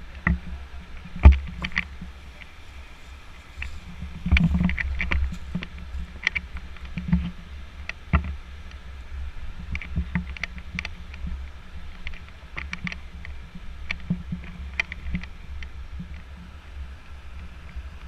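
Hikers' footsteps and knocks on a body-worn action camera over a steady low rumble, with the sharpest knock about a second in and a cluster of louder thuds around four to five seconds in.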